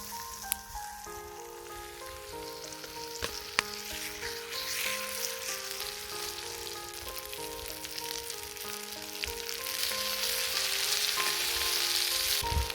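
Food sizzling in a pan over a wood fire in a small portable fire bowl, swelling louder about ten seconds in, with two sharp clicks, the first about half a second in and the second about three and a half seconds in. A simple background melody plays underneath.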